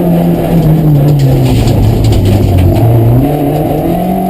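Rally car engine running hard. The revs drop steadily over about three seconds, then climb again near the end.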